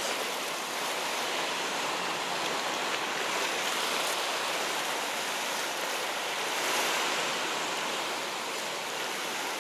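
Steady wash of sea surf, an even rushing noise without breaks.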